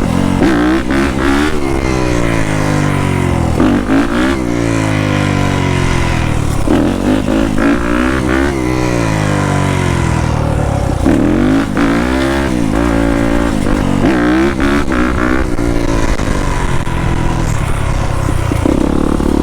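Yamaha YZ250F four-stroke single-cylinder dirt bike engine being ridden, its revs repeatedly climbing and dropping as the throttle is opened and rolled off.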